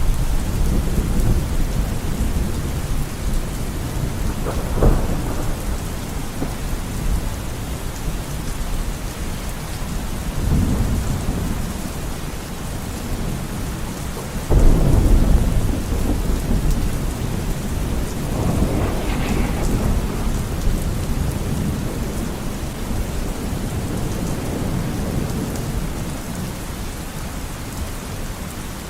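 Thunderstorm: steady rain falling with rolling thunder, a loud rumble breaking in suddenly about halfway through and sharper cracks of thunder twice.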